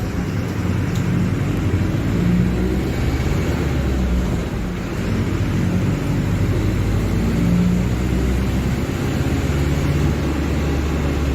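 Diesel engine of a Mercedes-Benz OF-1721 Bluetec 5 bus running, a steady low hum that wavers slightly in pitch and loudness, with a brief dip about five seconds in.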